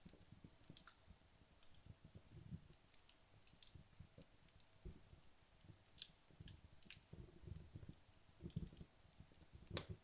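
Wood logs burning down in a fireplace: faint, sparse crackles and pops, about one every second or two, over a soft low flutter of flame.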